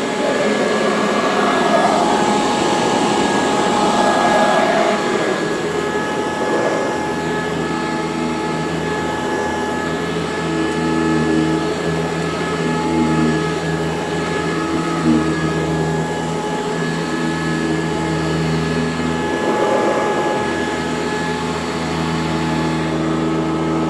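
Eureka Commercial vacuum cleaner (model C2094) running steadily while vacuuming, a constant motor hum with several held tones, and rushes of airflow swelling in the first few seconds and again about twenty seconds in.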